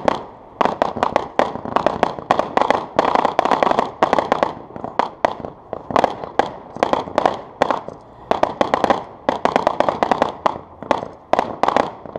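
Consumer aerial fireworks launching and bursting overhead in rapid succession: a dense string of sharp bangs and crackles, several a second, with only brief lulls.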